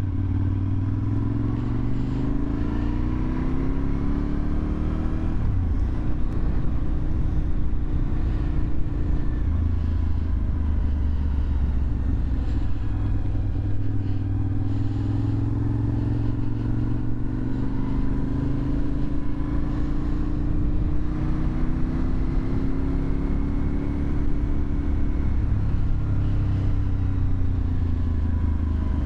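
Suzuki TL1000R's 90-degree V-twin running through an aftermarket LeoVince exhaust while being ridden. The engine note climbs for about five seconds and drops sharply, as at a gear change or throttle closing. It then holds and slowly climbs again before easing off near the end.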